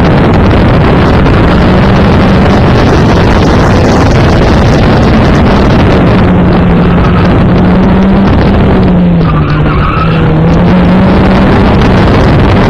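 Car engine run hard at high revs, around 5,000 to 6,300 rpm, during an autocross run, heard from inside the open-top cockpit. Its note rises and falls with the throttle and dips briefly about nine to ten seconds in.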